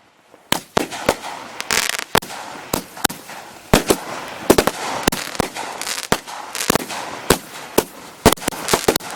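Consumer multi-shot firework cakes firing: a string of sharp bangs at about two a second, with crackling between them, starting about half a second in after a brief lull.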